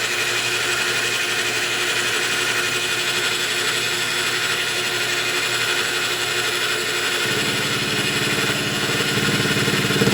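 Lathe running steadily while milling a flat on a copper bolt; about seven seconds in, the sound turns coarser with a fast rattle as the cut bites harder.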